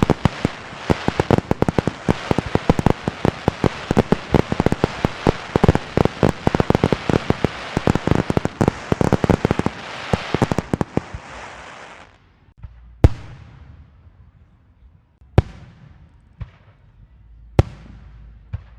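A long string of firecrackers popping in rapid succession, which stops suddenly about twelve seconds in. About five single loud bangs follow, a second or two apart, each trailing off in a short echo.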